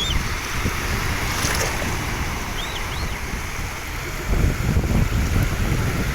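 Steady outdoor wind and water noise with rumbling wind on the microphone, and a few short high whistles near the start and about three seconds in.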